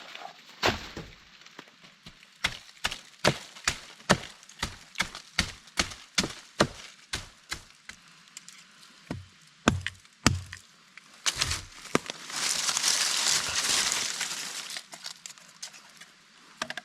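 Repeated chopping blows on wood, about two sharp strikes a second for several seconds, then a few heavier scattered blows. A burst of rustling follows near the end.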